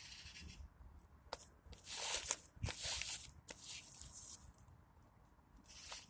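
A few short, hissy rustles with light clicks between them.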